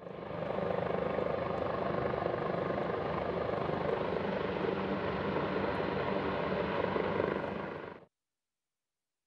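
Helicopter flying overhead, a steady rotor and engine noise that cuts off suddenly about eight seconds in.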